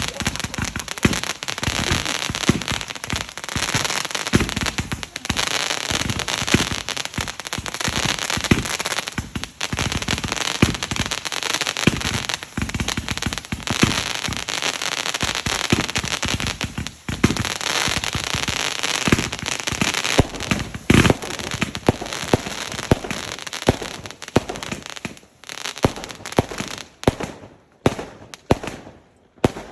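Fireworks going off in a dense, continuous barrage of crackling and bangs, thinning out into separate bangs over the last few seconds.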